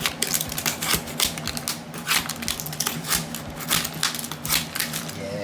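Floor tile being chipped and pried up with hand tools: irregular sharp knocks and scrapes of metal on ceramic, a few a second.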